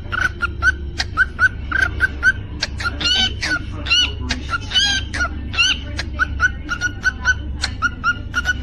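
Cockatiel chirping: a short chirp repeated several times a second, broken in the middle by a few rising-and-falling whistled notes, over a steady low hum.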